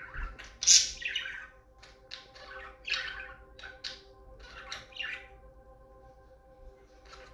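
Pet budgerigars chattering and squawking in a quick flurry of short, high calls. The calls are loudest about a second in and thin out after about five seconds.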